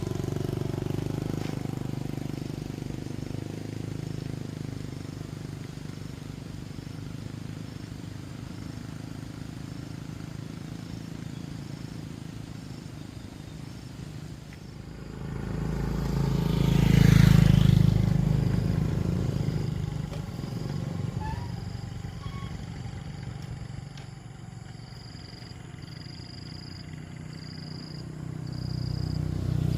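Motor vehicle engine sound, steady and low, swelling loudly as a vehicle passes close about halfway through and then fading. A faint high chirp repeats about once a second near the end.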